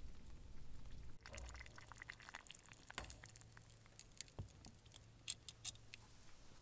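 Faint sound of liquid being poured and dripping, followed by scattered light clinks and taps.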